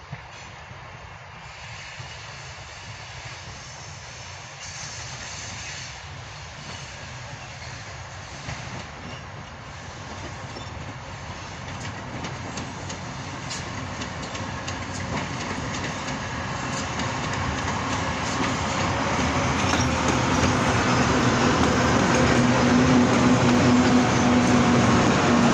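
Freight train hauled by a 2TE116 twin-section diesel-electric locomotive approaching, growing steadily louder throughout, with wheels clicking over rail joints and a steady hum near the end.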